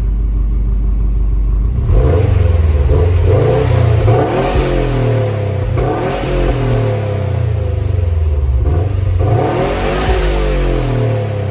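2018 Subaru WRX STI's turbocharged 2.5-litre flat-four idling on its stock exhaust, then revved several times from about two seconds in, the pitch rising and falling with each blip.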